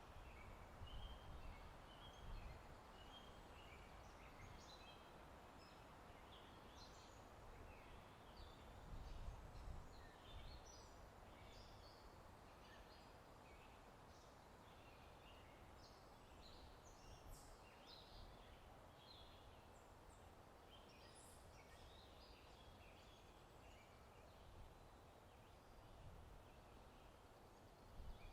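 Faint ambience of many small birds chirping and twittering over a steady hiss of wind in trees. Low gusts swell near the start and about nine seconds in.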